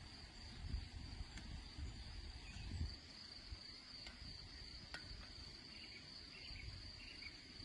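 Steady high-pitched chorus of insects, with an uneven low rumble and a few faint clicks underneath.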